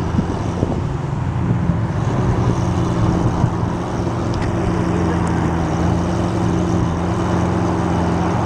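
Car engine idling steadily, an even low hum that holds one pitch with no revving.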